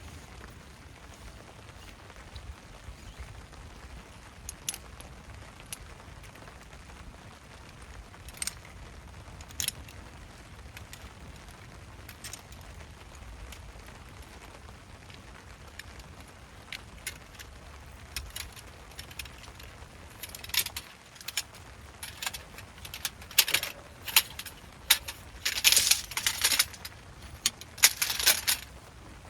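Metal clinks and rattles of camping gear being handled during a tent teardown. A few scattered clicks at first, then a quick run of loud clinks and rattles over the last nine seconds or so.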